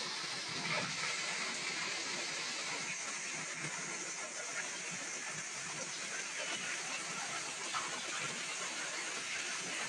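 Heavy rain falling steadily: an even hiss with small scattered drip ticks.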